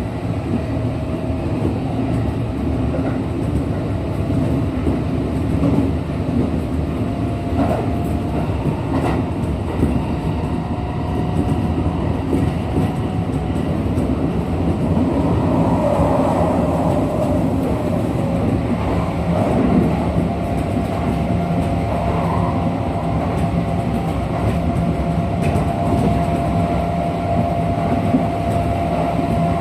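Running sound heard inside a Kintetsu 1233 series electric train car at speed: steady rumble of wheels on rail with a faint clicking of rail joints and a thin steady whine that grows clearer in the second half. This set is one the recordist singles out as a car with an unusual noise compared with a normal 1233 series.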